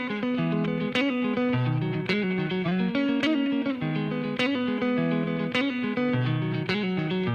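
Instrumental music: a guitar plays a repeating riff of held notes, with a short sharp accent about once a second and no drums yet.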